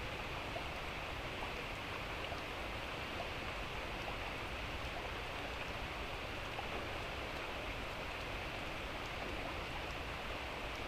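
Light rain falling steadily, an even hiss with scattered faint ticks of drops.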